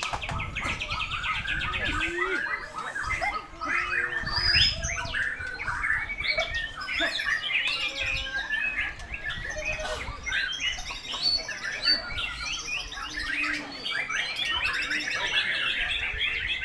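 Dense chorus of songbirds, murai batu (white-rumped shamas) among them, singing over one another at a bird-song contest: a steady tangle of rapid whistles, trills and chirps.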